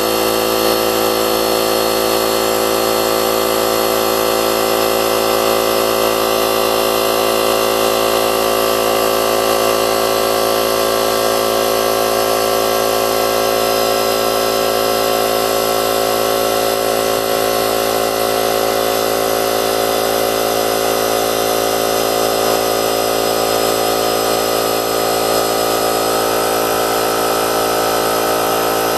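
DeWalt D51553 electric air compressor running steadily on a cold start, its motor and pump driving air into the tank as the pressure builds.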